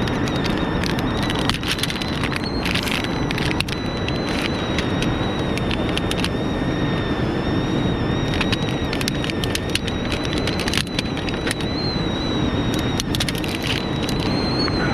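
Wood campfire crackling and popping over a steady hiss, with a thin, wavering high whistle that sags in pitch near the end.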